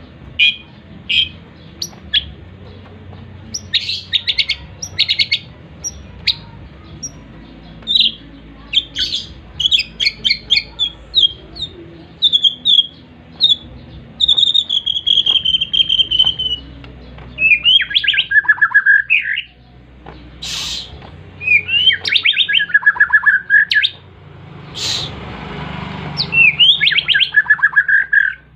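Pet songbird in full song ('gacor'), giving bursts of sharp chirps and quick trills, with a gliding whistle near the middle and several phrases that end on a lower held note.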